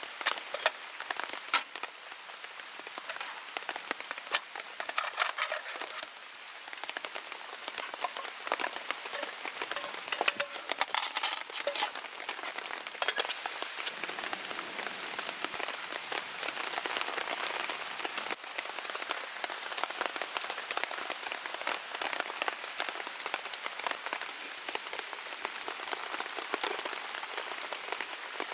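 Steady rain falling, with many sharp drop hits pattering on a surface, in thicker clusters about five seconds in and again around ten to twelve seconds in.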